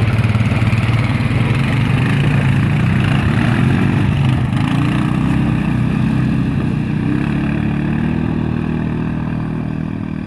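A motor vehicle engine running with a fast, pulsing low rumble, fading away over the last few seconds.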